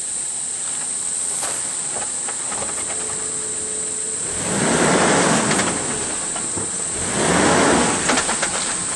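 Two loud rushes of splashing, surging water, about halfway through and again near the end, as a Suzuki Jimny 4x4 pushes through a flooded river crossing, over a steady high hiss.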